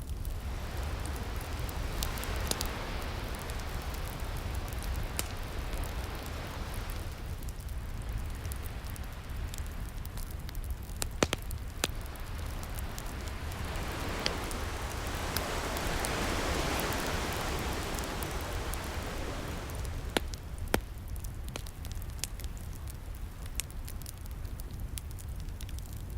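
Wood fire crackling and popping, with sharp snaps scattered throughout, over a low rumble. Ocean waves wash in slow swells, the biggest building and fading about midway.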